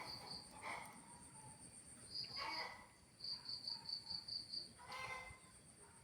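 Crickets or similar insects chirping in a nature soundscape: short pulsed trills of about seven chirps a second come and go over a steady, fast, high-pitched pulsing drone. A few brief, lower calls sound between the trills, about every two seconds.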